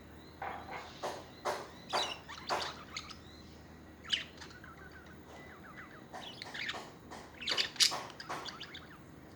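Budgerigars chirping in short, quick calls: a run of them in the first three seconds, a single call a little after four seconds, and another run with the loudest calls near eight seconds.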